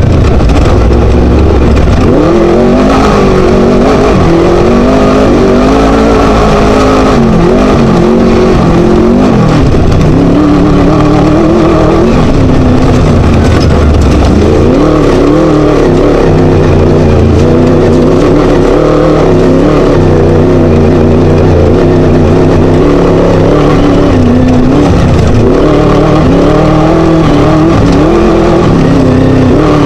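Class 1 desert race buggy's Scat V4 engine running hard under racing load, its pitch rising and falling continuously as the throttle comes on and off.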